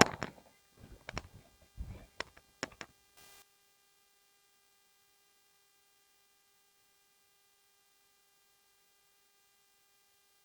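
A handful of sharp clicks and knocks over the first three seconds, the first the loudest. Then near silence with a faint steady electrical hum.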